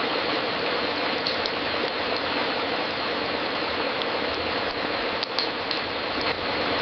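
Wood fire crackling in a fireplace: a steady hiss with scattered small pops, a few close together about a second in and more around five to six seconds in.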